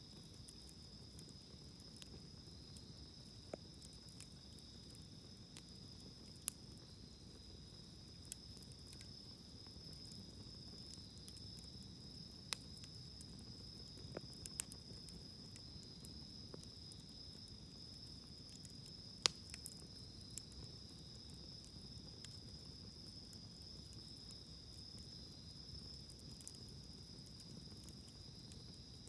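Wood fire crackling quietly in a fire stand, with a dozen or so sharp pops scattered through, the loudest about two-thirds of the way in. A steady high-pitched insect chorus, like crickets, runs underneath.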